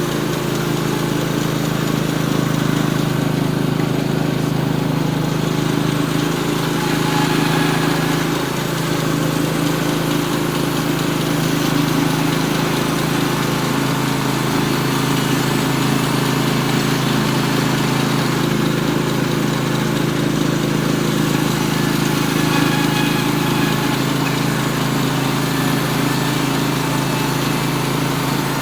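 Norwood HD36V2 bandsaw mill's engine running steadily under load as its band blade cuts a 2-inch flitch from a poplar log.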